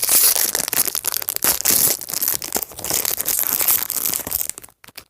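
A small plastic blind-bag wrapper being torn open and crinkled by hand, a dense crackling that stops abruptly near the end.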